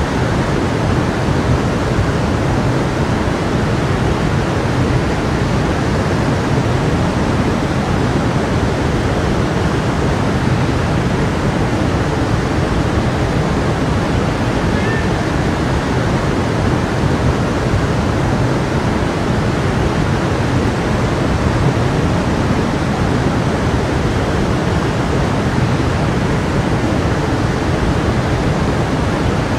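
A stream of water flowing steadily, a constant rushing and babbling.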